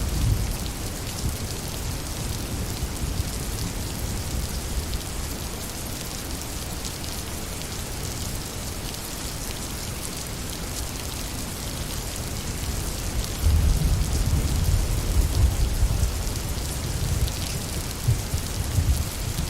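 Steady rain falling as an even hiss, with a low rumble underneath that is strong at the start and swells again about two-thirds of the way through.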